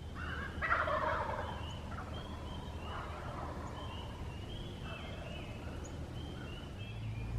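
Wild turkey gobbler gobbling at close range, one loud rattling gobble about a second in followed by fainter gobbles. Short high chirps repeat throughout.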